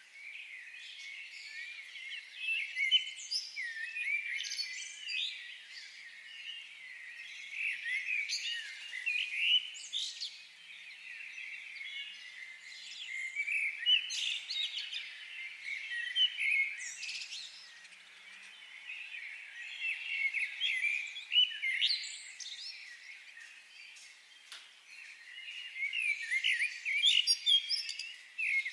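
Several small songbirds chirping and trilling at once, high-pitched and in busy clusters every few seconds, over a faint steady hiss.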